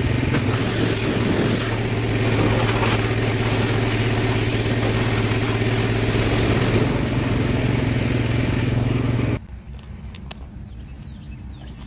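Pressure washer running with its spray hissing as it blasts heavy grease off a tractor: a steady hum under a dense rush of water. It cuts off abruptly about nine seconds in, leaving only a quieter background.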